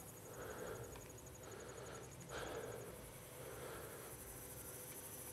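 Faint, even, high-pitched trill of crickets that fades out about three seconds in, with a few soft swells of outdoor noise.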